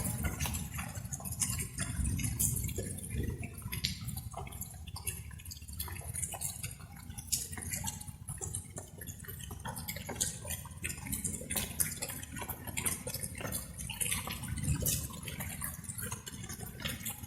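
Raindrops dripping and pattering in many quick, irregular drops over a steady low rumble.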